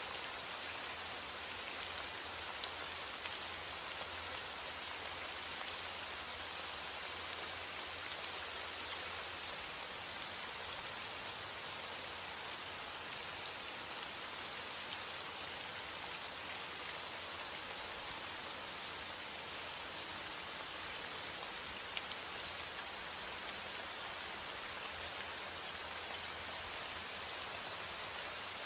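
Steady heavy rainfall, an even hiss of rain with scattered individual drops ticking on a surface.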